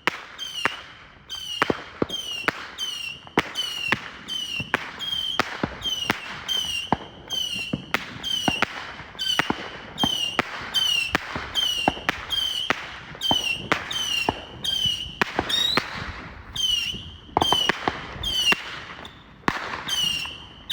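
Consumer firework cake firing shot after shot, somewhat under two a second. Each shot is a sharp bang followed by a short, high whistle.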